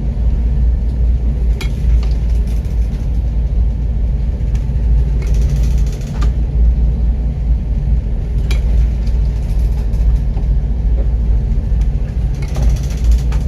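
Loud, steady low rumble with a few sharp knocks scattered through it.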